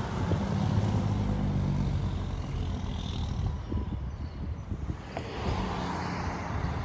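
Semi-truck diesel engine running as a truck goes by. A steady engine note is heard for the first couple of seconds, then it fades to a rougher, fainter rumble, and the note returns near the end.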